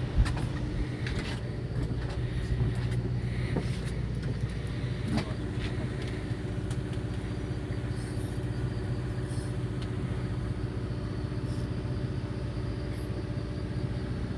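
Fishing boat's engine running steadily, a low, even drone, with a few light knocks and clicks on deck.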